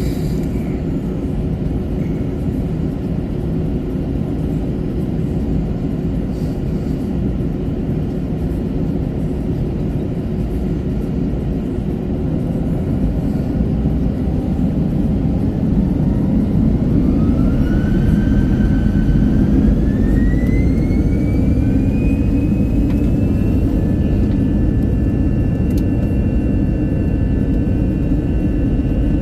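Airbus A321 jet engines heard from inside the cabin: a steady rumble, then about halfway through a whine that rises in pitch and levels off near the end as the engines spool up.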